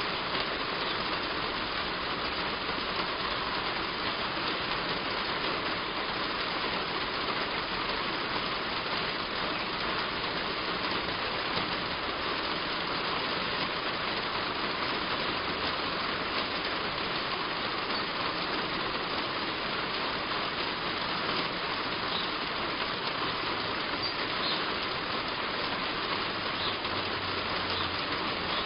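Heavy rain falling steadily on a roof, a dense, even hiss.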